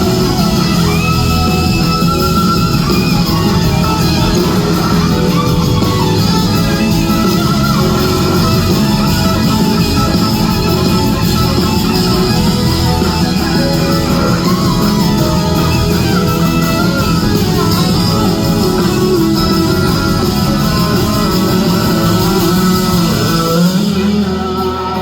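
Live rock band playing an instrumental passage led by a gliding electric slide guitar over bass and drums, with the music dropping away near the end.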